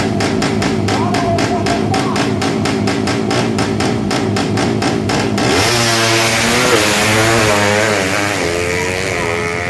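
Music with a fast, steady beat, cut off about five and a half seconds in by a drag-class underbone motorcycle engine revved up and down in repeated blips.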